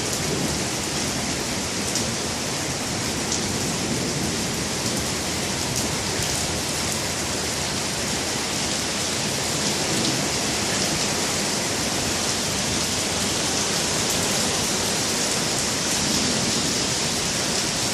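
Steady rain falling in a thunderstorm, an even hiss with faint scattered drop ticks.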